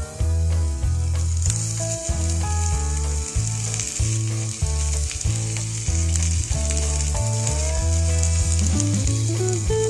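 Lamb sizzling and spitting as it cooks over a small fire pit, the sizzle growing stronger about a second in. Background music with a steady, stepping bass line plays over it.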